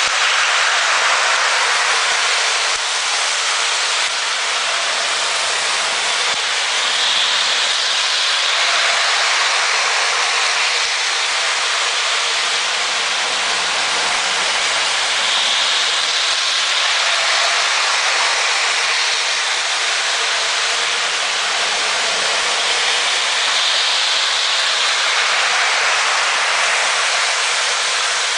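Toy Polar Express train set running on its track: a steady whirring, rolling noise that swells about every eight seconds.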